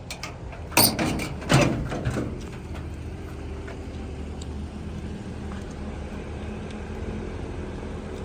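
Two loud metal clunks about half a second apart from the old pickup's steel body panels being shut or worked, each ringing briefly, over a steady low background rumble.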